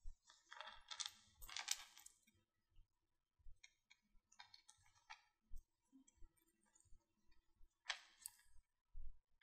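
Faint clicks and light clinking of jewellery pliers working small metal wire loops and links. A cluster of clicks comes from about half a second in to two seconds, a few more around four to five seconds, and one more near eight seconds.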